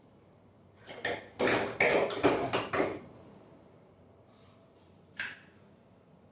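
Hard objects being handled: a quick run of clattering knocks and clicks, then a single sharp click a few seconds later.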